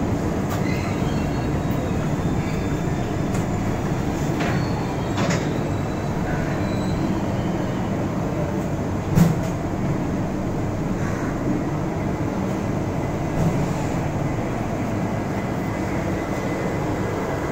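Passenger train rolling slowly through a station, heard from on board: a steady rumble of wheels on the track, with a sharp knock about halfway through and a smaller one a few seconds later.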